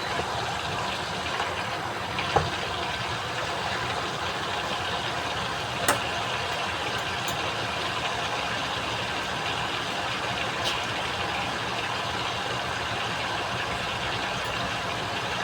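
Chicken pieces frying in hot oil: a steady sizzle with a few sharp pops of spitting oil.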